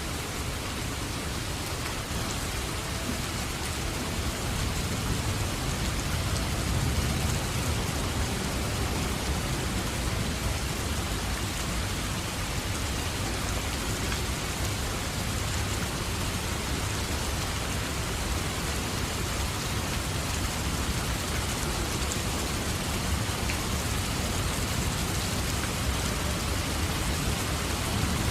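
Steady heavy rain pattering on a surface, with a low rolling rumble of distant thunder swelling underneath from about four seconds in.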